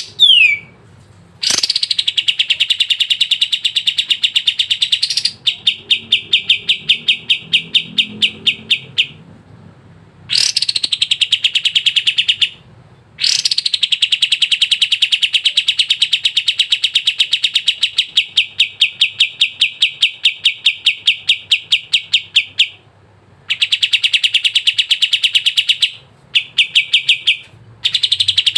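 Kapas tembak singing in full voice: long, loud trains of rapid, evenly repeated high notes, each burst opening with a sharp rising sweep and lasting from one to nine seconds, with brief pauses between.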